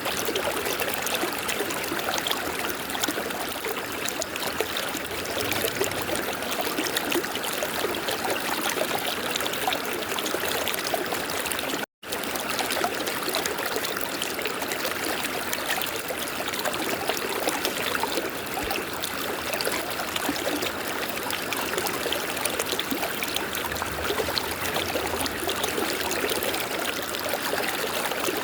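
Steady rush of a flowing river, cutting out for a split second about twelve seconds in.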